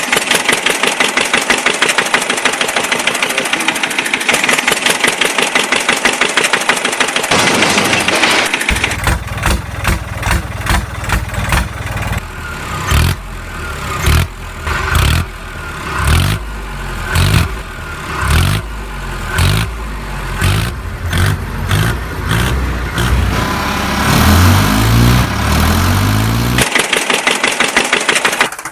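Vehicle engine sounds: a fast, even rattle for the first several seconds, then a deeper engine revving up and down about once a second, with rising revs near the end before the fast rattle returns.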